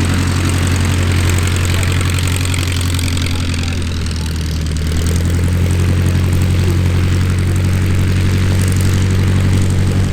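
De Havilland DH-89A Dragon Rapide's piston engines and propellers droning steadily in a display pass, the pitch shifting slightly about halfway through.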